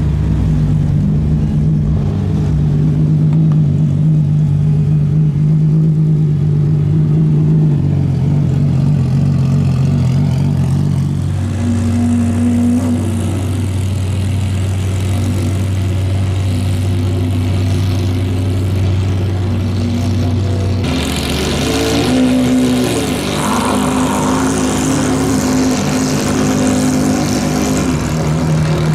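Ferrari F50 V12 engines running at low revs as the cars roll slowly by, a steady low engine note. The pitch jumps abruptly a few times, with a short rev about three-quarters of the way through.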